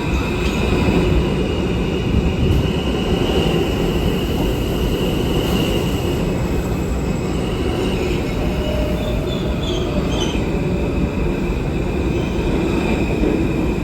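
Alstom R160A subway train moving through the station: a steady, loud rumble of wheels on rail with a high, steady squeal held over it.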